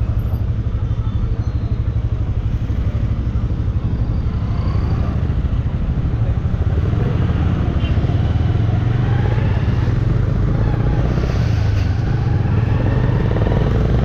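Bajaj Dominar 400 motorcycle's single-cylinder engine running while riding, with the engine note rising and falling through the second half.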